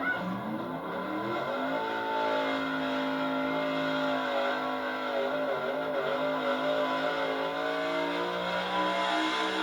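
Altered gas pulling truck's engine revving up over the first two seconds, then held at high, slightly wavering revs.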